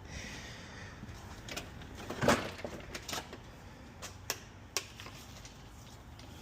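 Plastic car body parts being handled, giving scattered clicks and knocks, with a louder knock about two seconds in.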